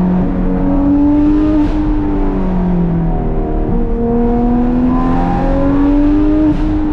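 Porsche 991.2 GT3 RS 4.0-litre flat-six running with Dundon street headers and a catless "Crack Pipe" exhaust, engine pitch rising and falling as the car is driven. There is a brief hissing whoosh about a second and a half in and again near the end.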